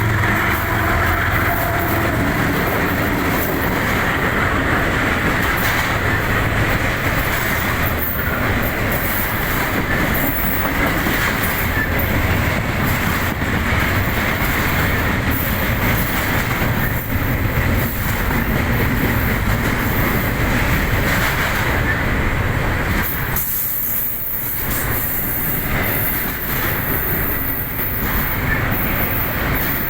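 Railroad train cars rolling past, a steady loud rumble and rattle of steel wheels on the rails, with clickety-clack and a faint high wheel squeal.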